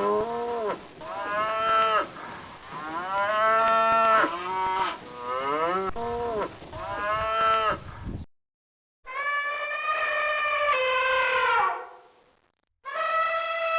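Cattle mooing: several short, overlapping moos for about eight seconds, then after a brief silence one long drawn-out moo, with another starting near the end.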